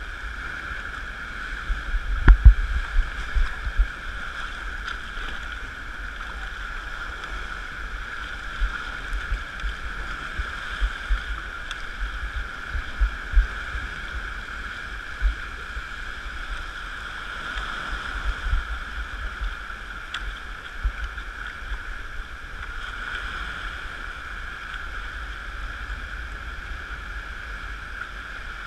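Water rushing and gurgling along a sea kayak's hull as a steady hiss, with irregular low thumps, the loudest a cluster about two seconds in.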